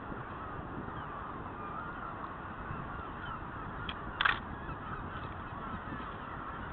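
Birds calling: many faint short calls throughout, with one loud short call about four seconds in.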